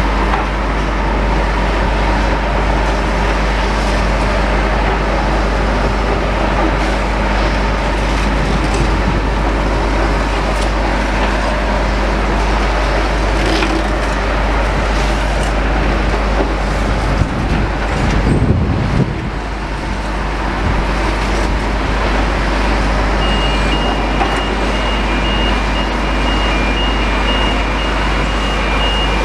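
Demolition-site machinery, mainly tracked excavators working rubble, running steadily at a distance. A steady high tone comes in about three-quarters of the way through.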